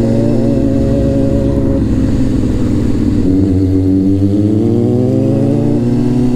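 Honda CBR600F4i sport bike's inline-four engine running under way, holding steady revs, then climbing in pitch over a couple of seconds and falling off sharply near the end.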